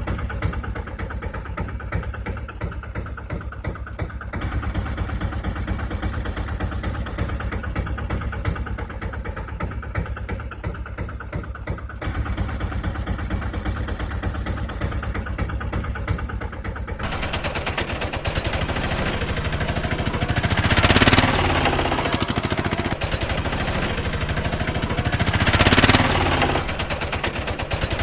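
Rapid, even chugging of a small engine or motor, broken by several abrupt changes; in the later part it swells loudly twice, about five seconds apart.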